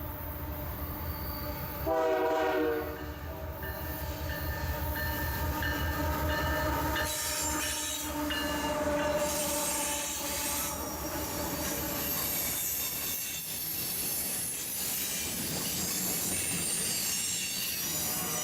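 BNSF freight train with GE diesel locomotives: a short horn blast about two seconds in, then the locomotives' low diesel rumble with steady high tones and wheels squealing on the rails as the train rolls by.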